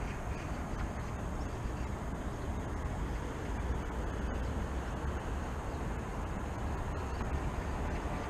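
Steady city background noise: a low, even rumble of distant traffic with no distinct events.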